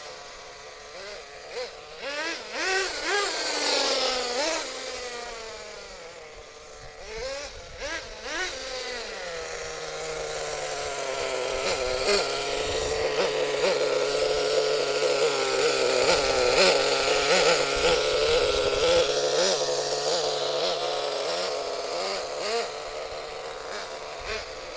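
Small nitro engine of a CEN MG10 RC monster truck revving in short blips several times, then running at a steadier, higher speed under load for the rest of the time. It is pulling through the truck's rebuilt spur gear and slipper pads.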